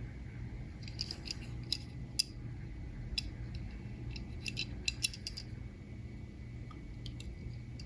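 Scattered light clicks and taps of a small diecast model car being handled and turned over in the hands, busiest in the first five seconds, over a low steady hum.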